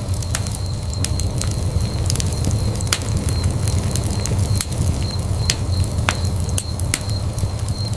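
Wood fire burning in a fireplace: a steady low rumble of the flames with sharp, irregular crackles and pops of the burning wood.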